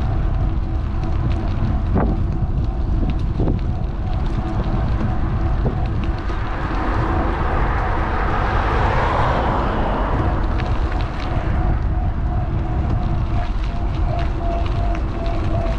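Wind rumbling on the microphone of a GoPro mounted on a moving electric bike, with a faint steady hum under it. A rushing sound swells and fades between about six and eleven seconds in, as a vehicle passes.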